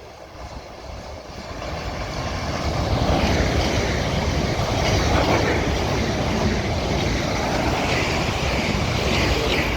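Three South Western Railway Class 450 Desiro electric multiple units coupled together, passing through the station at speed. The rush of wheels on rail builds from about a second in, stays loud for several seconds, and begins to fade near the end.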